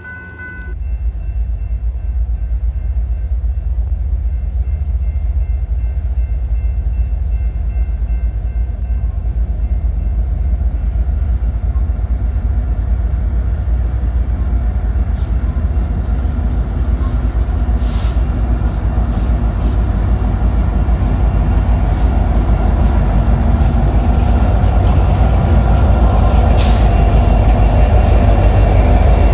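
Train passing trackside: a steady low rumble that slowly grows louder, with a few brief high-pitched squeals.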